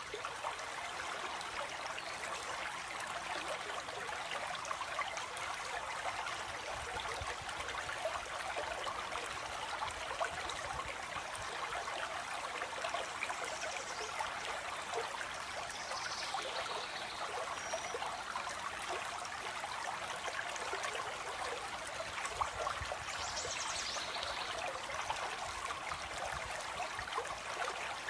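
Stream water flowing and trickling steadily, with a few short, faint bird calls about halfway through and again near the end.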